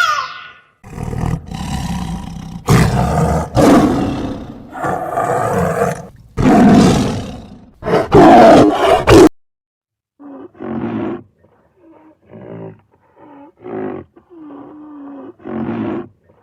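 A big cat roaring, several loud rough roars one after another. After a short gap comes a series of shorter, quieter pitched calls.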